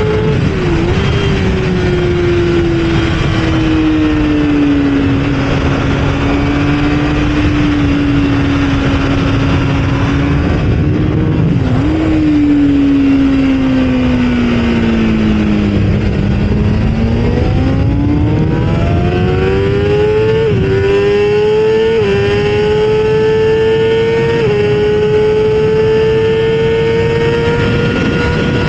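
Kawasaki ZX6R inline-four sport-bike engine at full song on track. It winds down slowly as the bike slows, with two short dips about one and twelve seconds in. It then pulls hard again, stepping down in pitch three times near the end as it shifts up through the gears.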